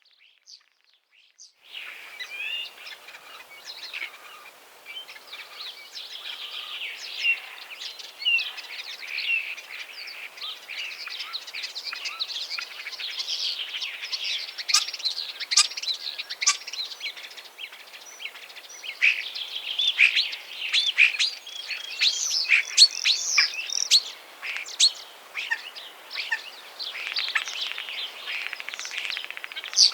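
A chorus of many small songbirds chirping and twittering densely and without pause, starting about two seconds in.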